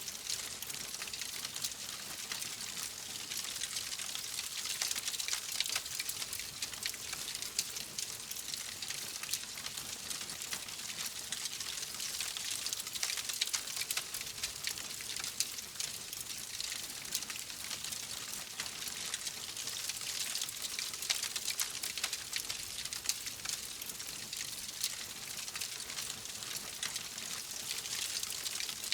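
Wood fire crackling steadily: a dense run of small pops and snaps over a soft hiss, with a few slightly louder snaps scattered through.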